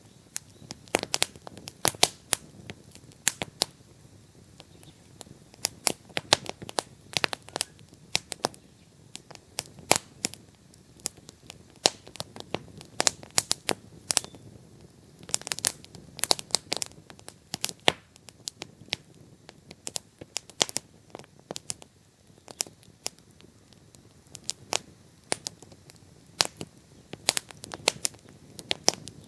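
Wood bonfire crackling: irregular sharp pops and snaps, sometimes several in quick succession, over a faint low hiss of burning.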